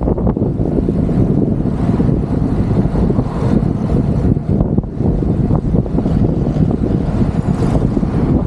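Wind buffeting the microphone of a camera carried on a moving bicycle: a loud, rumbling, gusting roar with no distinct tones.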